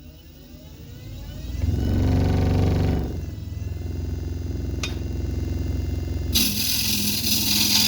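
Wood lathe motor spinning up with a rising whine over the first two seconds, then running steadily. About six seconds in, a carbide turning tool starts cutting the spinning yellow cedar and walnut bowl blank, adding a loud scraping noise.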